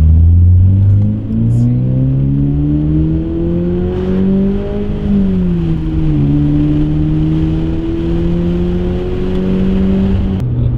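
Toyota GR86's 2.4-litre flat-four engine accelerating hard, heard from inside the cabin. The revs climb steadily, fall about five seconds in as at a gear change, then climb again until another drop near the end.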